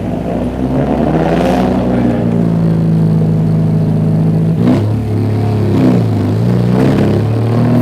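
Car engine running under way, holding steady revs, then falling and rising in pitch twice as the revs drop and pick up again.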